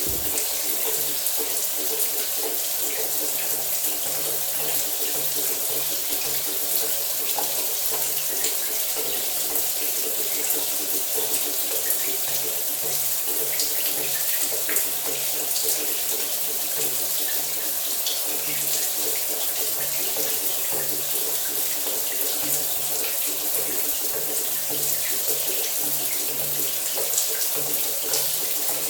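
Shower running steadily: a continuous hiss of water spraying and splashing, with faint steady hum beneath.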